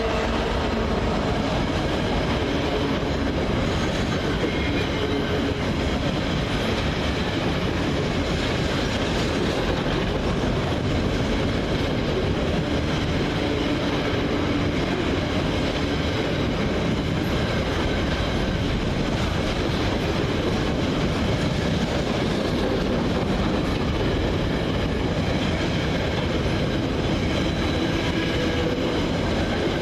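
Class 66-hauled freight train rolling steadily through the station, a long run of wagons going past on the rails.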